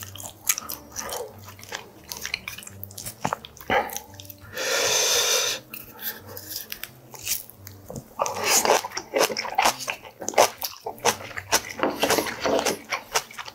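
Close-miked eating of kimchi and boiled pork: crunchy bites and wet chewing of salted napa cabbage, with many sharp crackles that grow denser in the second half. About four and a half seconds in, a steady rushing noise lasts a little over a second.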